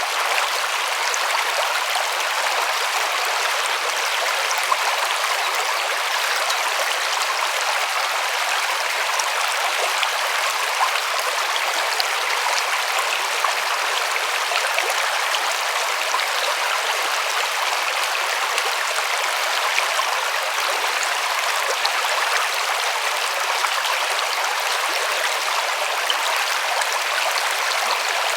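A river flowing over stones, a steady rushing and splashing with small droplet ticks.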